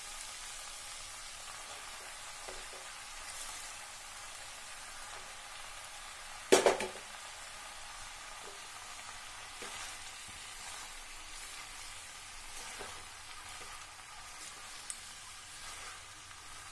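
Vegetables sizzling steadily in hot oil in a kadai. About six and a half seconds in comes one loud, short burst as a heap of raw spinach is put into the pan, and a spatula scrapes and stirs near the end.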